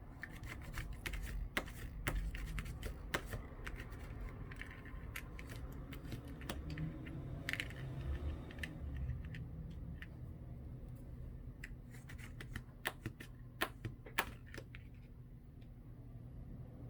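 Irregular light clicks and taps of small tools and parts being handled during a phone repair, as a copper cooling plate is fitted onto a replacement screen frame. A faint low hum sits underneath.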